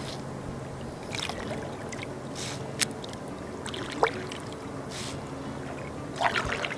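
Quiet open-water ambience around a kayak, a steady low wash, with a few short hissing swells and two sharp small clicks.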